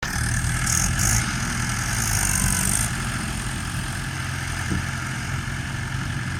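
Tractor diesel engine running steadily at low revs, with a high hiss over it for the first three seconds.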